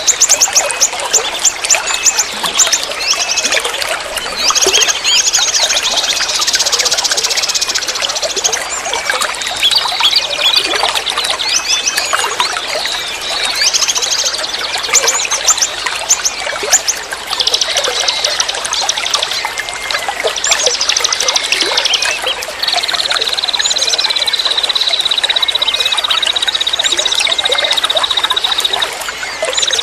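Forest river flowing steadily, with many songbirds calling over it: quick high chirps and rapid trills, and in the last quarter one long even trill held for about six seconds.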